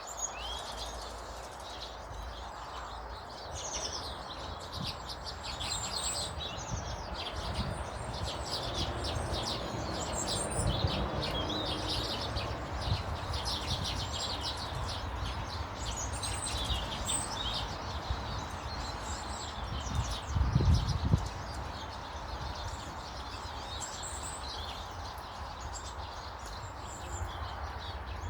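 Small garden birds chirping and twittering, many short high calls overlapping throughout over a steady background hiss. A low rumble underneath swells briefly about twenty seconds in.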